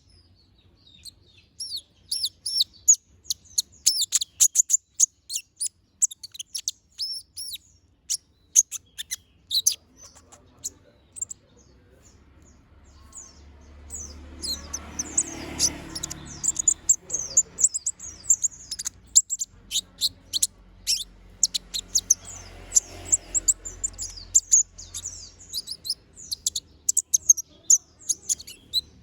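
Konin (kolibri ninja sunbird) singing vigorously in fast, high, thin chirps and twitters, falling silent for a few seconds about a third of the way in before singing densely again.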